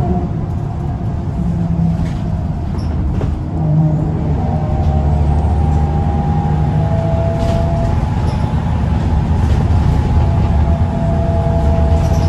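Scania L94UB bus's diesel engine pulling hard under load, with a steady drone and a whine running over it. It gets louder about three and a half seconds in.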